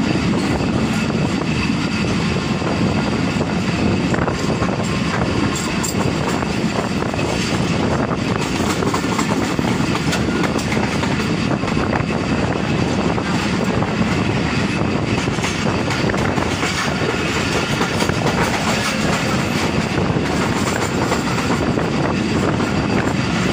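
A moving passenger train heard from an open coach doorway: a steady rumble of wheels rolling on the rails, with occasional faint clicks over the rail joints.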